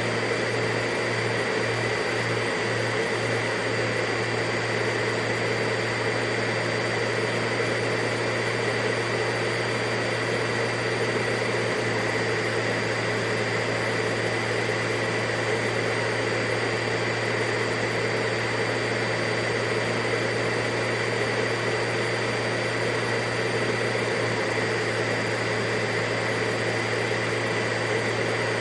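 Vacuum cleaner motor running steadily, a constant whooshing hum with a low drone and a high whine.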